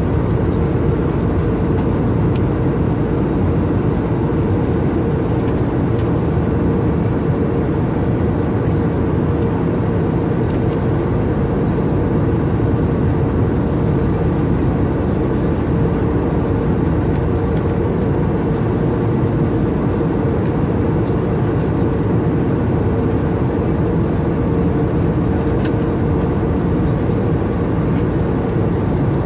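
Airbus A320neo cabin noise in cruise: the steady drone of engines and airflow heard inside the cabin, with an even hum near 500 Hz.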